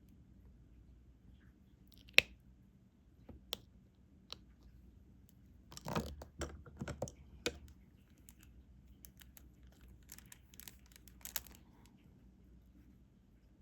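Diamond painting at work: scattered small clicks and crunchy taps of plastic resin drills being picked up with the drill pen and pressed onto the sticky canvas, one sharp click about two seconds in and two short clusters of clicks near the middle and toward the end.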